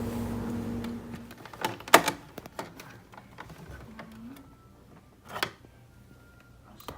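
Clicks and knocks of a hard plastic toy food truck being handled, with a sharp click about two seconds in and another about five and a half seconds in.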